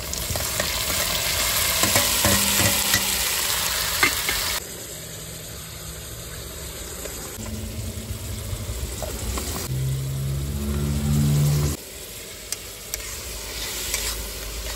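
Chopped tomatoes hissing loudly as they are tipped into hot spiced oil in a steel kadhai, then frying more quietly as spice is added and the mixture is stirred with a metal spatula. A low droning tone sounds over the frying for a couple of seconds past the middle, ending abruptly.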